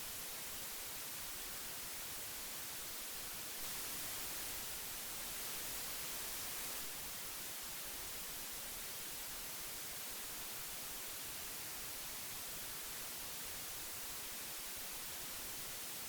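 Old tape hiss: a steady, even hiss weighted toward the high end, swelling slightly for about three seconds near the start.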